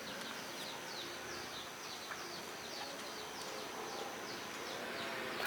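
Rural outdoor ambience: a steady high-pitched insect drone that stops near the end, with short falling bird chirps repeating about twice a second.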